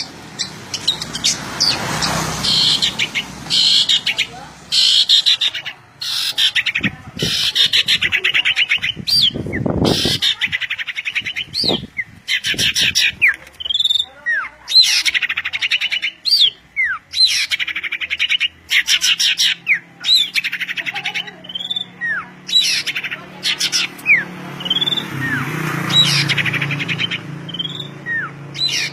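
A songbird singing energetically and without pause: rapid buzzy trills and chirps broken by short whistles that slide in pitch.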